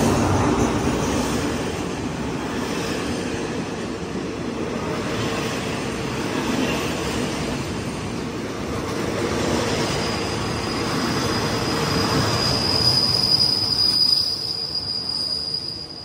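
Diesel-hauled passenger train pulling slowly into a platform: the locomotive rumbles past at first, then the carriages roll by. From about ten seconds in, a high, steady squeal rises from the wheels and brakes as the train slows to stop.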